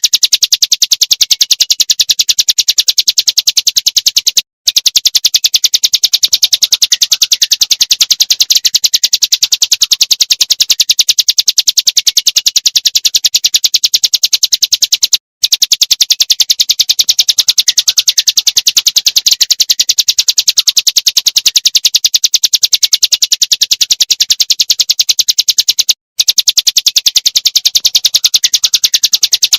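Prinia giving a fast, even, high-pitched chattering call without pause, cut off briefly three times as the recording loops, about every eleven seconds.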